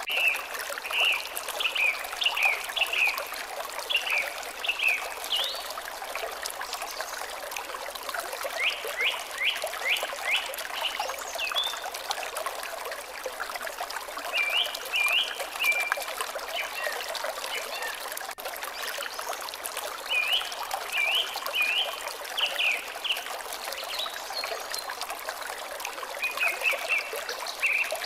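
Water trickling steadily, with a songbird repeating a short phrase of quick high notes roughly every six seconds.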